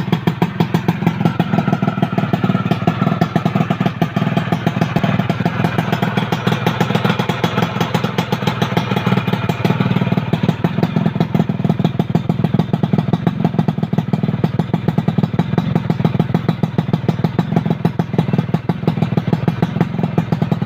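Yamaha F1ZR two-stroke motorcycle engine running steadily at idle through an aftermarket exhaust, a fast, even, throaty pulse with no revving.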